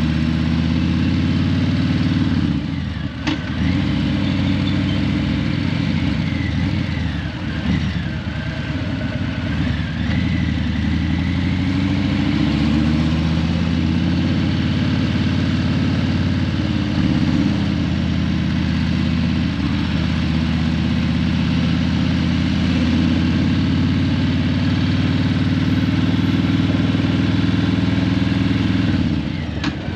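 Harley-Davidson Breakout 117's Milwaukee-Eight 117 V-twin running steadily through Vance & Hines Eliminator 300 slip-on mufflers, with brief dips in level about three and eight seconds in and again just before the end.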